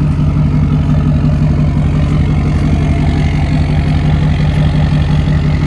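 Pickup truck engine idling steadily, a low, even pulsing note, while the truck sits stuck in soft sand.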